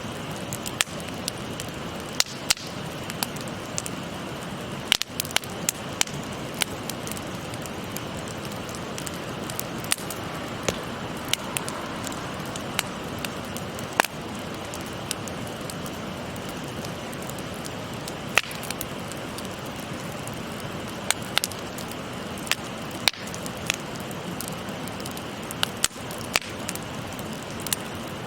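Wood fire crackling with irregular sharp pops, about one or two a second, over the steady flowing of a babbling stream.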